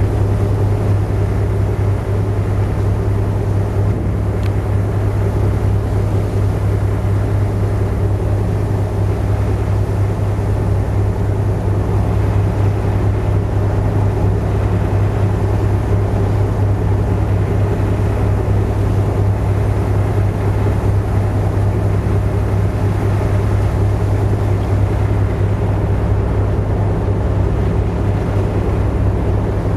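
Car ferry's engines droning steadily, a loud, even low hum that holds without a break.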